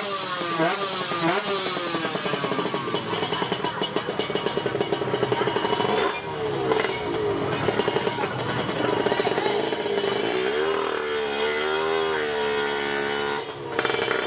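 Racing motorcycle engines run hard at high revs. In the first couple of seconds the pitch drops several times, as with gear changes or bikes passing. Later the revs waver up and down.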